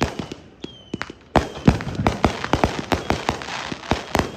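Consumer firework cakes firing in a fast, irregular string of sharp bangs and reports, densest in the middle, with a few faint high whistles among them.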